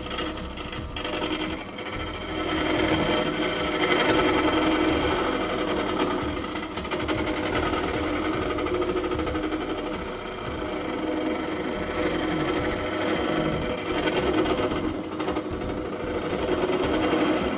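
Wood lathe running with a turning tool cutting a spinning resin casting blank: a steady machine hum with scraping that swells and eases as the tool bites.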